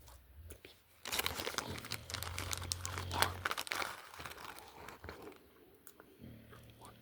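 Packaging being crinkled and torn open by hand: a dense run of crackling and tearing, loudest for a few seconds about a second in, then fading to scattered crinkles.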